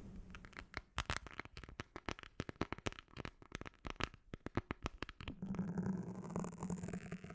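Close-miked ASMR tapping: a quick, irregular run of sharp taps or clicks, several a second, for about five seconds. It gives way to a steady low hum with a soft hiss.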